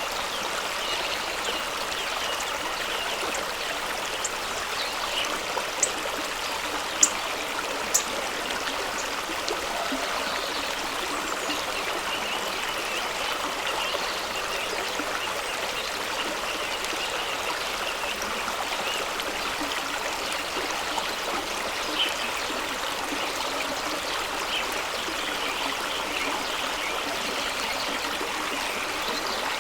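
A fast-running stream rushing steadily over rocks as an even hiss of water. A few brief sharp splashes stand out, the strongest about seven and eight seconds in.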